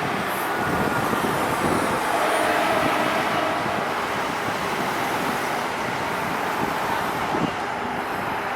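Fire engine moving along a city street: a steady rumble of engine and road noise mixed with surrounding traffic.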